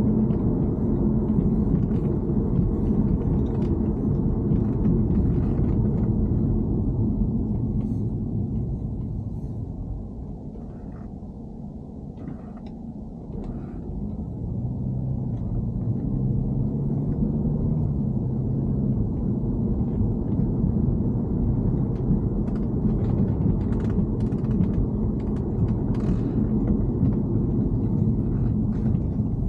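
BMW E90 sedan driving, a steady low road and engine rumble with scattered light clicks; it eases off for a few seconds around the middle, then builds back up.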